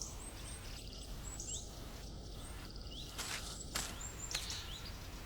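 Woodland background with small birds chirping: many short high chirps and a few quick sliding notes, with a few sharp clicks or snaps about three to four seconds in.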